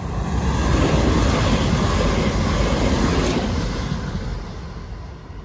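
Class 450 Desiro electric multiple unit passing close by: a wheel-on-rail rumble that swells to its loudest about a second in and fades away after about four seconds.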